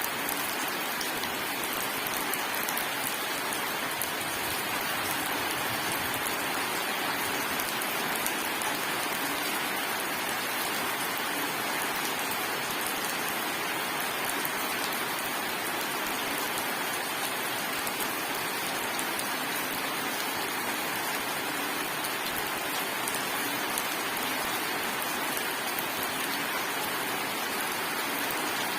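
Steady rain falling, an even hiss of rain on a surface with individual drops ticking through it.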